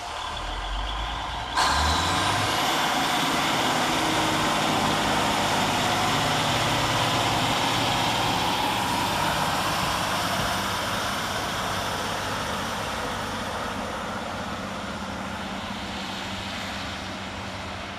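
Class 153 diesel multiple unit's single Cummins diesel engine opening up as the unit pulls away: the engine note rises over the first couple of seconds, and about 1.5 s in it jumps to a loud, hissy, working sound. The sound holds steady, then slowly fades as the unit draws off.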